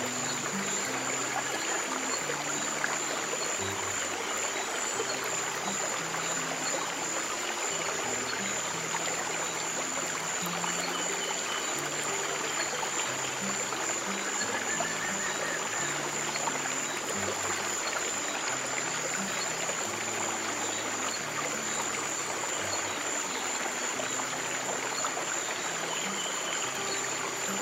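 Steady running stream water, with soft, slow, low piano notes playing underneath and a thin steady high tone above.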